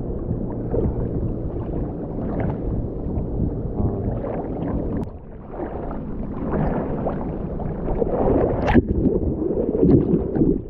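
Seawater sloshing and churning around a point-of-view camera as a swimmer paddles out through surf, muffled, with a brief lull about halfway and a sharper splash later on.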